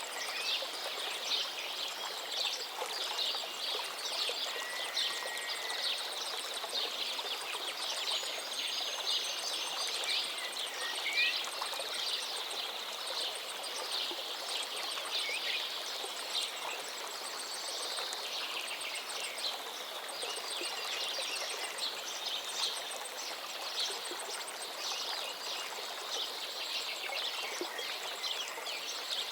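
A forest stream flowing steadily, with songbirds calling over it: a few short whistled phrases stand out above the water.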